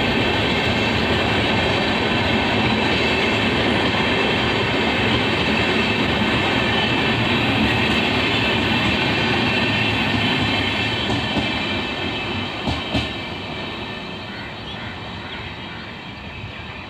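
Passenger coaches rolling slowly past: a steady rumble and clatter of steel wheels on the rails, with two sharp knocks about thirteen seconds in. The sound fades as the last coach draws away.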